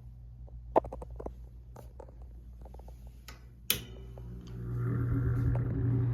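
A few light handling clicks, then a sharp click about two-thirds of the way through. After it the Mathes Cooler Model 543 box fan's electric motor starts with a steady hum that grows louder as the fan comes up to speed.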